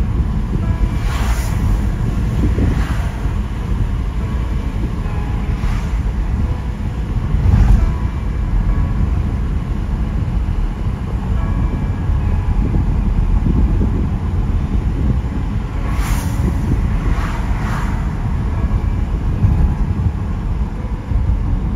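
Steady low road and engine rumble of a car driving on wet roads in the rain, with a few brief swishing sounds, several close together near the end.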